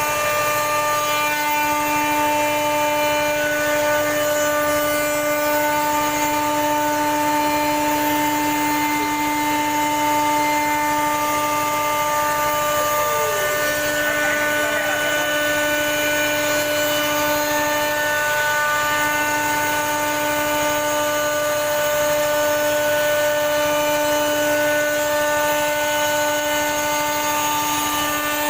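CNC router spindle running with a steady high whine, cutting a design into a wood or MDF door panel.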